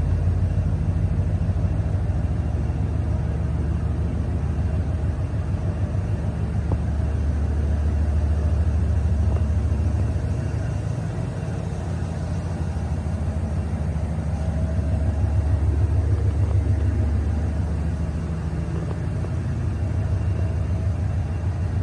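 The engine of a 1997 Ford F350 XLT crew cab pickup running steadily with a low, even note, its loudness swelling and easing slightly a couple of times.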